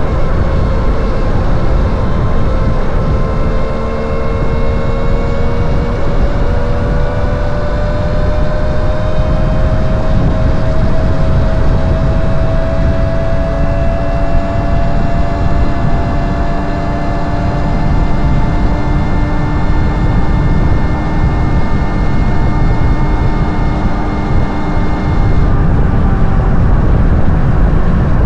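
Wind buffeting the microphone on a moving electric motorcycle, with the Land Moto District's motor whine slowly rising in pitch as the bike gains speed, then holding steady.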